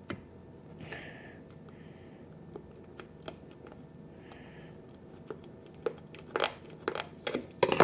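Scattered small clicks and crinkles of a plastic object being handled and picked open by hand, growing busier and louder in the last two seconds.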